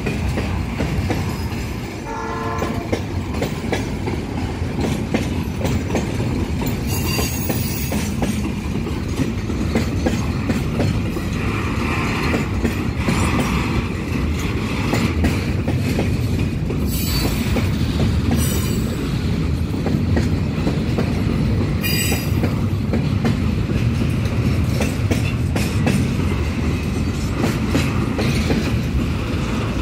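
Loaded container freight train rolling past close by, its flatcars making a steady low rumble and clatter of wheels over the rail joints. Short high wheel squeals come and go several times.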